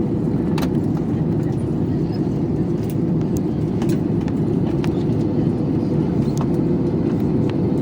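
Steady rumble of an airliner cabin in flight: jet engine and airflow noise, with a faint constant hum and a few light clicks.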